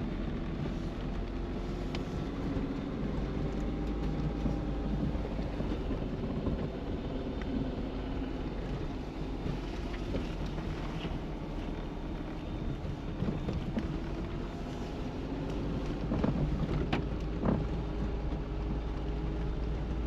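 Lada Niva engine running while the car crawls across a ploughed field in low-range gear, heard from inside the cabin, its pitch drifting slowly with the throttle. A few knocks near the end.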